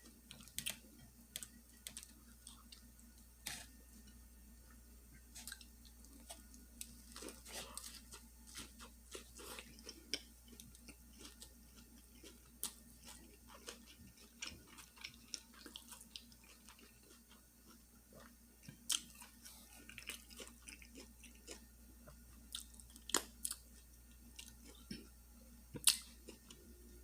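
Close-miked chewing of a fish sandwich and salad: irregular wet clicks and crunches of mouth sounds, the loudest click near the end.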